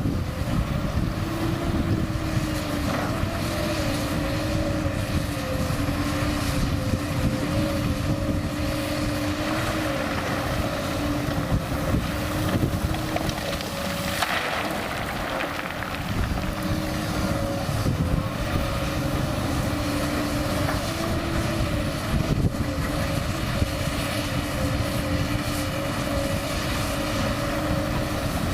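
Komatsu PC200 hydraulic excavator's diesel engine running steadily at working speed, its hum dipping and rising slightly in pitch as the load changes, with wind noise on the microphone.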